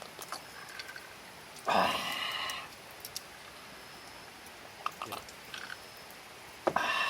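A person drinking: two loud sips, about a second in and again near the end, each a short slurp with a voiced edge. Faint scattered clicks in between.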